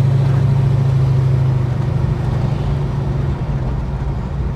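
Holden HK's engine running steadily at cruise, heard from inside the car with road noise: a strong low drone that eases off a little after about three seconds.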